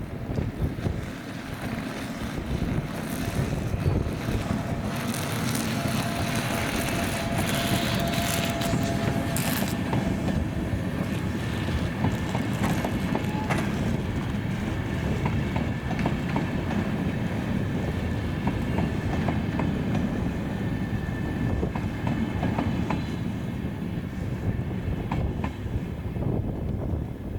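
A train passing close by: a steady heavy rumble of rolling wagons with a run of wheel clicks over the rails.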